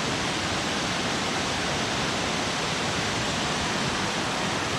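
Steady rush of a creek waterfall, a loud even hiss of falling water.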